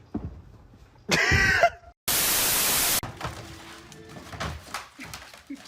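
A loud, shrill cry with wavering pitch lasting about half a second, then a second of loud static-like hiss that starts and cuts off abruptly, followed by a few faint knocks.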